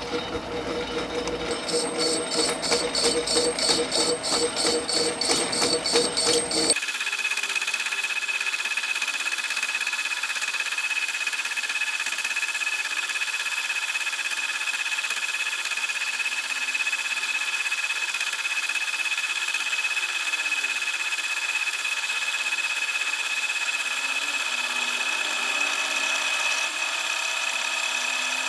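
Machine-shop power tools running: a rapid, even pulsing for about the first seven seconds, then after a sudden change a steady high whine.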